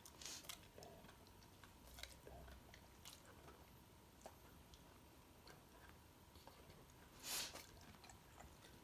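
Weimaraner sneezing: a short sharp burst just after the start and a louder one about seven seconds in, with faint clicks in between. The owner puts the sneezing down to hay fever.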